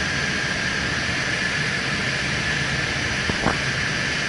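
Steady cockpit noise of an Airbus airliner on final approach: an even rush of airflow and engines with a constant high whine. There is one brief faint blip about three and a half seconds in.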